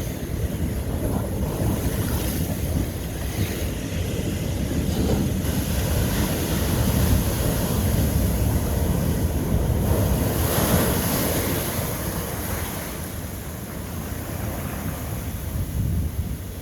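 Ocean waves crashing and washing over old lava rock. The surf swells and breaks repeatedly, loudest around ten to eleven seconds in, then eases off.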